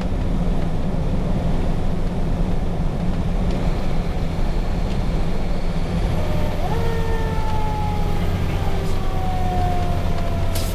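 Cummins 6CTA 8.3 diesel of a 1993 KME Renegade fire engine droning steadily, heard from inside the cab while under way. About two-thirds of the way through a siren winds up and then slowly falls in pitch, rising again near the end.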